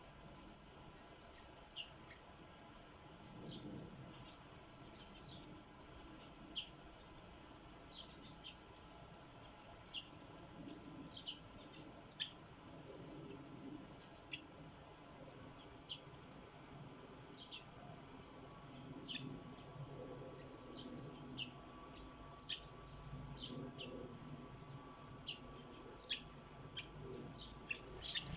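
Sparrows chirping: short, high chirps scattered through, one or two a second.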